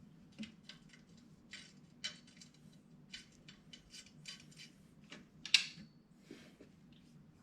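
Metal exhaust parts being handled and fitted: a run of light clicks and clinks, with one sharp metallic clink about five and a half seconds in.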